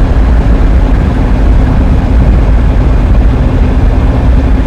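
Car driving along a road: a loud, steady rumble of engine and road noise with a faint constant hum.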